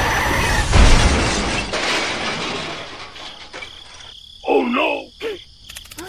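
A crash sound effect with breaking and shattering, loudest about a second in and fading away over the next two seconds. Near the end, a short high-pitched voice.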